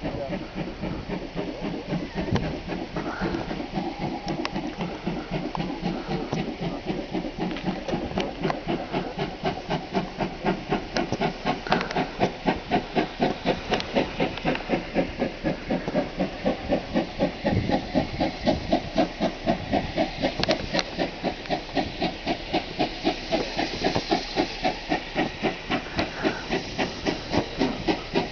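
GWR 56XX 0-6-2 tank engine No. 5619 thrashing uphill, its exhaust beating hard and fast at about four beats a second over a steady hiss of steam, with the banking engine also working. The beats grow louder and more distinct about a third of the way in.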